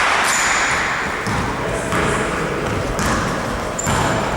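Indoor basketball game: a ball bouncing on the court floor, with a couple of short, high sneaker squeaks and the murmur of voices echoing in the hall.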